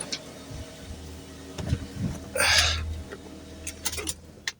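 Car engine idling with a steady low hum, then switched off so that the running dies away near the end. A short hiss comes about two and a half seconds in.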